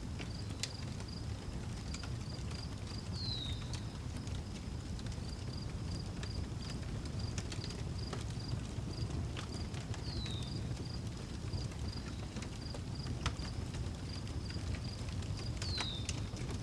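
Outdoor wood fire crackling, with scattered sharp pops over a low steady rumble, while a cricket chirps steadily in a fast regular pulse. A bird gives a short falling call three times, about six seconds apart.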